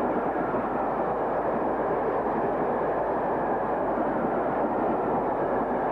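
Steam train running past: a steady, loud rushing rumble with no clear beat, which cuts off suddenly at the end.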